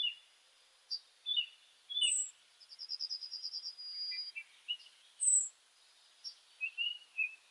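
Songbirds chirping: short whistled calls repeating every few seconds, mixed with scattered lower chirps and a fast trill of rapid notes about three seconds in.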